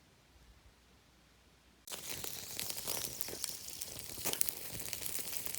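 Near silence, then about two seconds in a sudden start of food cooking over a campfire: a dense sizzling crackle with many sharp pops.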